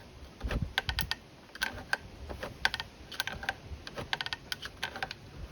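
Irregular small clicks and taps of hands working the plastic throttle lever and its fittings on a mower handle, with a couple of dull knocks near the start.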